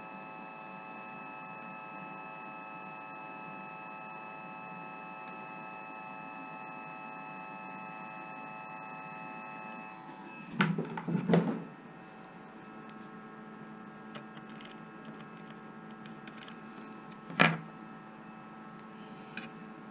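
A small electrical device hums steadily with a whining tone, then stops about halfway through. Loud clattering handling knocks follow right after, and one sharp click comes a few seconds later.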